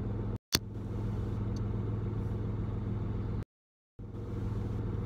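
Steady low hum of a car's engine heard from inside the cabin. The sound cuts to dead silence twice, very briefly near the start and for about half a second in the middle, with a click just after the first gap.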